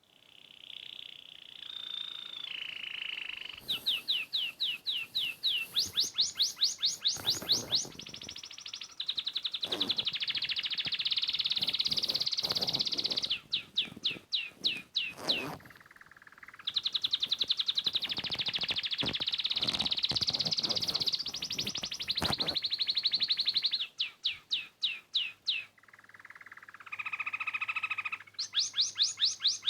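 Small songbird singing: runs of quick, repeated sweeping chirps alternating with long, fast trills, with short pauses between phrases.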